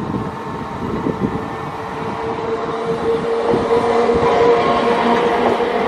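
Electric MEMU commuter train approaching and passing close by, its running noise growing louder, with a steady whine of several held pitches strengthening over the last two seconds.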